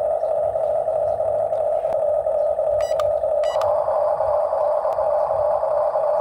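Heavy diesel machinery running steadily with a droning hum. Two short high tones sound about half a second apart near the middle, and the drone gets fuller just after them.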